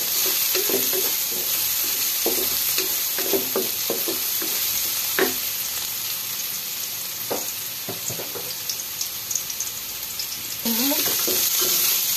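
Minced garlic sizzling in hot oil in a nonstick wok, stirred with a wooden spatula that scrapes and knocks against the pan. The sizzle grows louder near the end as flaked tuna goes into the pan.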